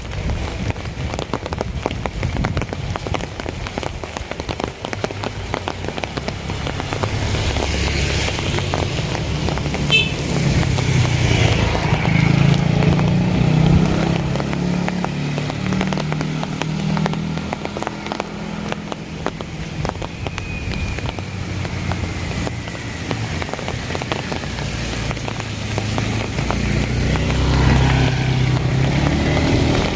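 Heavy rain falling, a dense crackle of drops hitting surfaces, with a low rumble that swells about halfway through and again near the end.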